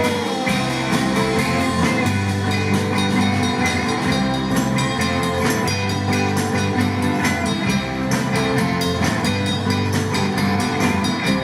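Live rock-and-roll band playing an instrumental stretch with guitar, bass and drum kit on a steady beat, with no singing.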